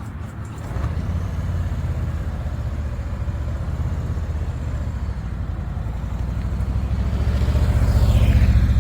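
Motorcycle engine running as the bike rides off, a fast low pulsing that builds in loudness toward the end as it accelerates.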